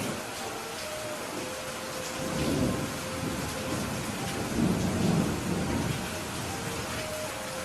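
Steady rain falling, with low rolling thunder rumbling twice: once about two seconds in and more strongly around five seconds in.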